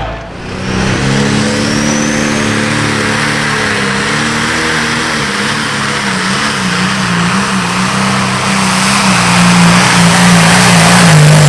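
Tractor-pulling engine running hard under load, its pitch wavering up and down. It grows louder toward the end.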